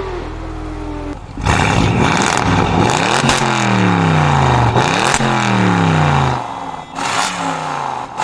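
Loud car engine revving hard, its pitch sweeping up and down several times. It comes in suddenly about a second and a half in, then eases off for a moment near the end before rising again.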